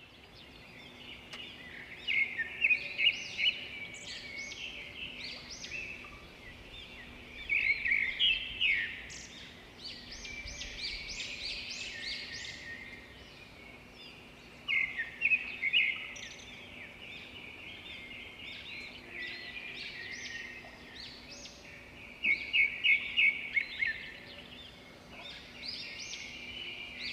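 Birds chirping and singing, with loud clusters of rapid calls every six or seven seconds and quieter chirps between, over a faint steady low hum.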